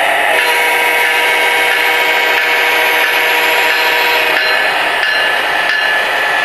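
O gauge model diesel locomotive (MTH Premier Genset) running on track: the Proto-Sound 2.0 diesel engine sound from its small onboard speaker mixed with motor and wheel noise, a steady dense rush with a faint whine that stops about four seconds in.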